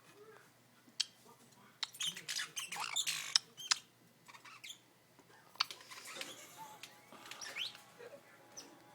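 A bird squawking in harsh bursts, heaviest about two to three seconds in, with a few sharp clicks scattered through and a short rising call near the end.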